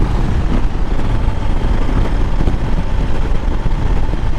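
Motorcycle riding along at a steady pace: a continuous rumble of engine and wind noise on the microphone, with no sudden changes.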